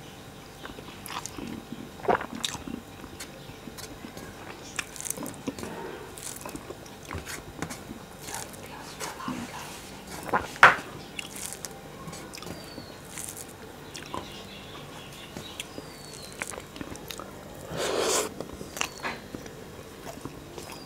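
Close-miked eating sounds of a man chewing and biting mouthfuls of rice with fried bitter gourd, potato and onion, eaten by hand from a metal plate. Scattered small mouth clicks, with a couple of louder smacks.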